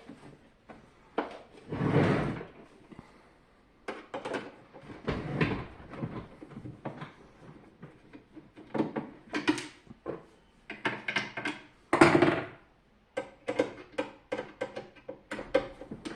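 Parts of a SilverCrest SLE 450 A1 dehumidifier being handled and taken apart: irregular knocks, clicks and short scraping noises, with louder, longer scrapes about 2, 5 and 12 seconds in.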